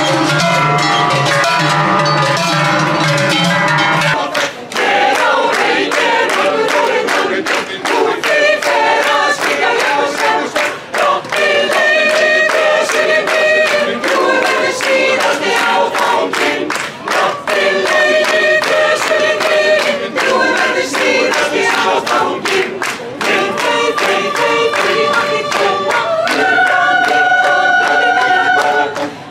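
Yodel choir singing long held notes in harmony, with sharp percussive strikes throughout. The sound changes abruptly about four seconds in, from a fuller, lower chord to the sung notes.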